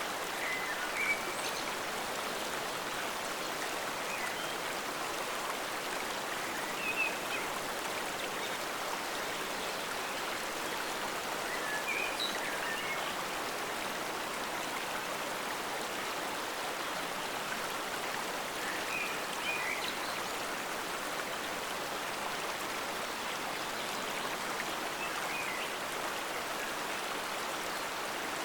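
Stream water flowing steadily over rocks, an even, unbroken rush, with small brief brighter splashes standing out every five or six seconds.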